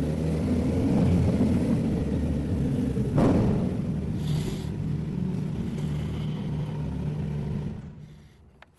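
Motorcycle with an aftermarket sport exhaust running with a steady low rumble, a short sharper burst about three seconds in, then the sound fades away near the end.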